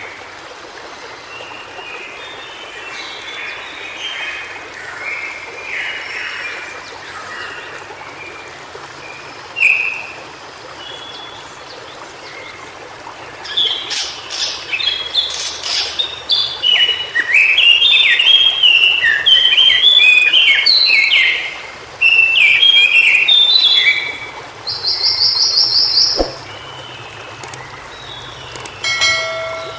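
White-browed shortwing singing: soft, scattered phrases at first, then from about halfway a loud, rapid, jumbled warble that runs for about ten seconds, followed by a short buzzy note and a last brief phrase near the end.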